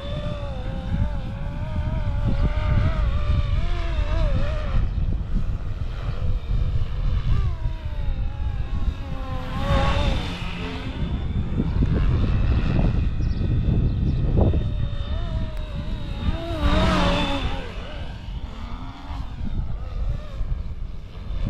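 Flywing Airwolf RC helicopter (electric FW450 V3 inside) flying: the rotor and motor whine wavers up and down in pitch as it holds and manoeuvres, twice sweeping sharply in pitch. Heavy wind rumble on the microphone runs underneath.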